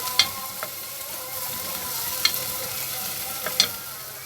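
Chopped onion and garlic sizzling in rendered sheep's tail fat in a pot as it is stirred, with three sharp clicks of the spoon against the pot.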